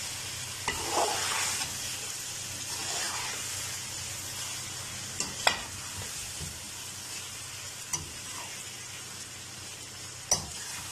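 Fried taro (arbi) slices sizzling in an oily masala as they are stir-fried in a metal pot, with a steady frying hiss. A metal spoon scrapes through them and knocks sharply against the pot a few times, loudest about five and a half and ten seconds in.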